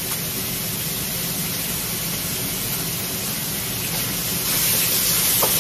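Pork and onions sizzling in a hot, newly seasoned wok: a steady frying hiss that gets a little louder near the end as they are stirred.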